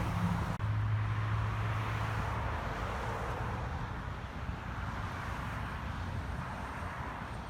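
Car going by: a low steady engine hum for the first two or three seconds over a rush of road noise that slowly fades.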